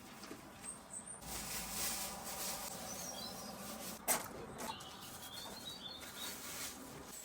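A few short, high bird chirps over a steady outdoor background hiss, with a single sharp knock about four seconds in.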